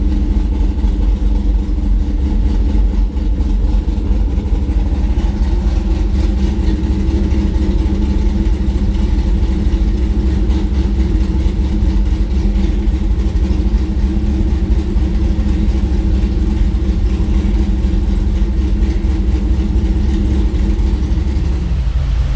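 Cammed Chevy Camaro SS LS3 V8 idling steadily and loudly; its note drops just before the end.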